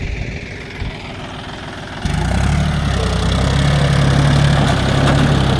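Tractor engine running; about two seconds in it suddenly gets louder and then holds a steady low hum.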